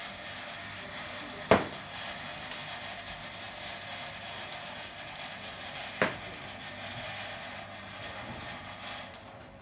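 A steady rushing noise that starts suddenly and cuts off near the end, with two sharp knocks, one about a second and a half in and one about six seconds in.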